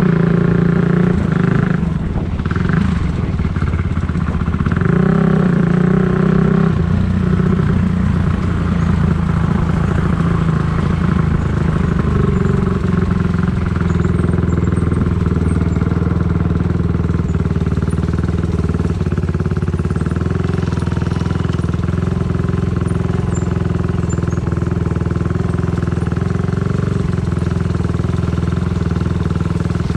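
Dirt bike engine running while riding, its pitch rising and falling with the throttle over the first several seconds, then holding steadier.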